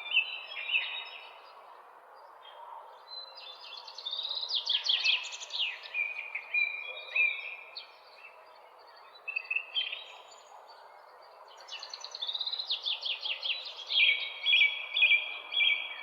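Songbirds singing in the early morning, with short chirps and two long phrases of rapid down-slurred notes, the first about four seconds in and the second about twelve seconds in. A steady low background noise runs underneath.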